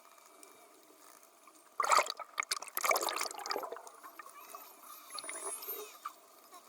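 Seawater splashing: one sharp splash about two seconds in, then a longer run of splashing for about a second, with gentle sloshing around it, as dolphins break the surface.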